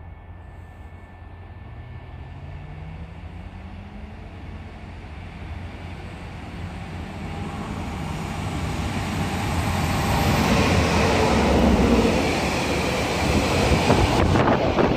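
Freight train of tank wagons headed by E6ACT-005 electric locomotive approaching and running through the station: a rumble that grows steadily louder, with a faint rising whine about two seconds in, peaking as the locomotive passes about ten seconds in. The tank wagons then roll by with wheel clatter and a few sharp clacks near the end.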